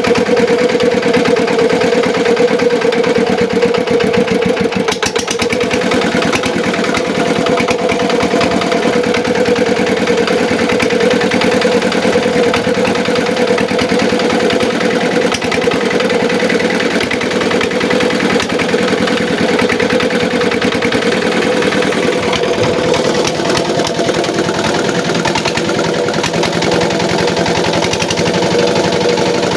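The engine powering a home-built gambir leaf grinding and pressing machine, running steadily.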